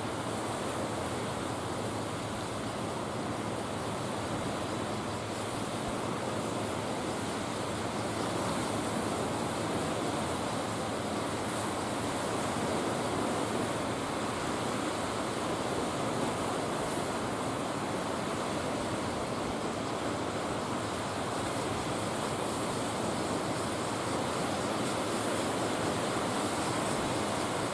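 Steady rush of sea water and wind, with no distinct events, growing slightly louder about a third of the way in.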